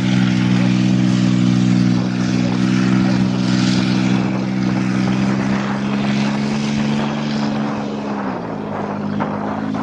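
Ford truck engine running steadily on its first cold start of the year; about eight seconds in its idle drops to a lower pitch and keeps running.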